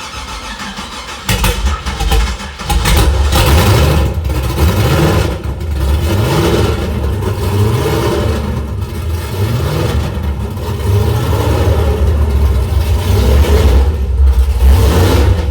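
The supercharged, methanol-fuelled engine of a Holden VT Calais firing up for the first time on a fresh build, catching about a second in. It then runs loud and rough, revved in repeated short blips that rise and fall.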